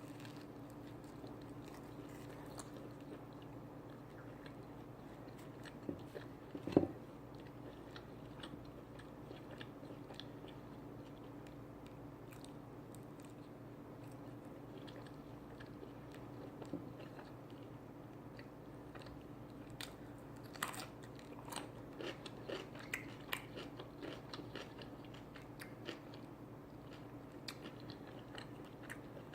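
Close-up eating sounds: chewing and biting into food, with scattered small crunches and clicks over a steady low hum, one sharper click about seven seconds in and a busier run of bites about two-thirds of the way through.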